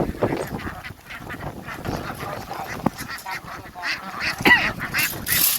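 A flock of domestic ducks quacking, many short calls overlapping, with a brief rush of hissing noise near the end.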